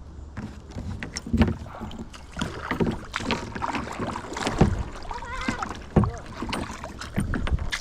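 Irregular splashing and knocking of water around a kayak as it is worked through shallow, weedy water, with the sharpest knocks about one and a half, four and a half, and six seconds in.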